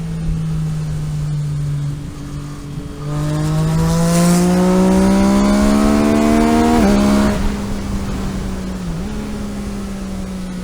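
Car engine accelerating hard: after a brief lift of the throttle about two seconds in, its pitch climbs steadily and grows louder for about four seconds, then drops suddenly at an upshift and settles into steady running.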